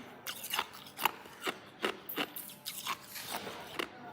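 Hard ice being chewed close to the microphone: a steady run of sharp crunches, about two or three a second, each breaking with a brittle crackle.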